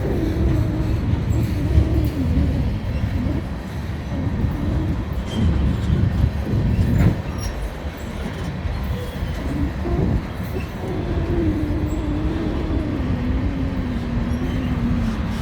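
Freight train rolling past: a steady low rumble of railcars on the track, surging and easing, with a tone that slowly falls in pitch during the second half.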